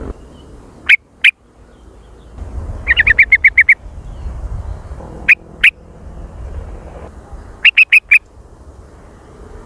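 Sooty-headed bulbul (kutilang) calling: short, sharp notes, some in pairs and some in quick runs of four to seven.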